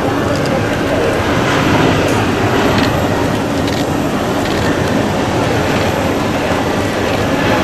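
Jet airliner engines heard close by, a loud, steady rush of noise with no clear tone or rhythm.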